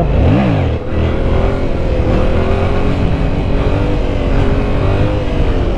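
Yamaha MT-07's CP2 parallel-twin engine under way: the revs climb and drop within the first second, then the engine pulls at fairly steady revs, with wind rush on the microphone.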